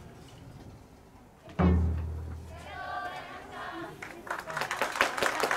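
A large taiko drum struck once with a heavy, deep boom that rings on and dies away. A short shout follows, then applause starts up about four seconds in.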